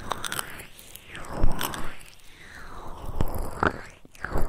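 Close-miked ASMR trigger sounds on a 3Dio binaural microphone: irregular crackling, scratching and rubbing, with a few sharper crackles.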